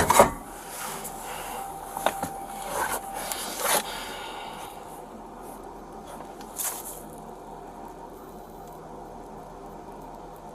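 Handling noise on a body-worn camera: a few knocks and scrapes, the loudest right at the start and more up to about four seconds in. After that there is only a steady low hum.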